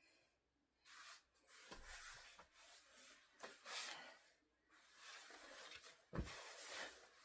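Quiet, hard exercise breathing mixed with body and clothing rubbing on an exercise mat, in several stretches, with two soft thumps, the louder one near the end.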